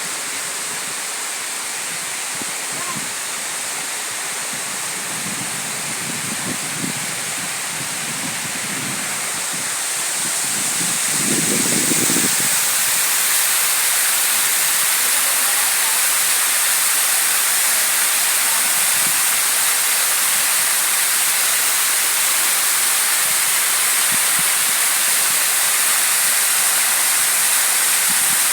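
Waterfall rushing steadily, growing louder about ten seconds in and then holding even.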